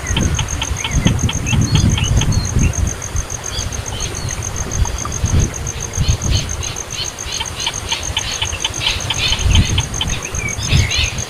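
A nestling songbird's begging calls: short high chirps repeated several a second, in quick runs, while it is hand-fed insects. Low thumps and rumbles of handling come with them, over a steady fast-pulsing high trill.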